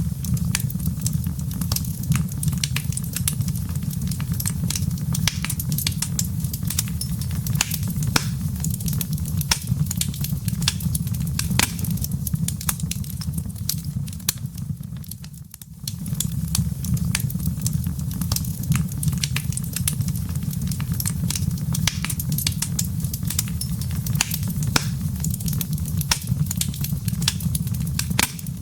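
Fireplace fire crackling and popping over its embers, with many sharp snaps over a steady low rumble. The sound briefly drops away about halfway through, then carries on.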